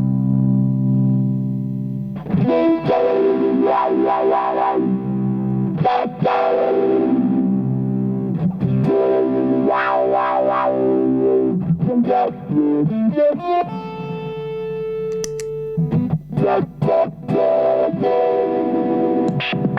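Electric guitar played through a Madbean Drunken Dragon overdrive pedal, a Lovepedal Eternity clone, giving a distorted tone: a held chord rings out, then chords are strummed and left to sustain about every two seconds, with a higher held note and quick picked notes near the end.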